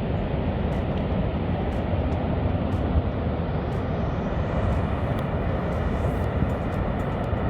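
Steady low rumbling noise with no clear tones or breaks.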